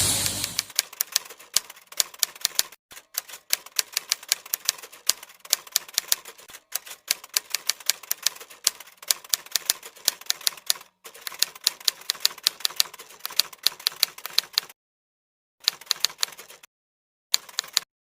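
Typewriter sound effect: rapid, irregular key clacks with short pauses, broken by two full dropouts near the end. It starts as the hiss of a high-pressure water spray cuts off in the first half second.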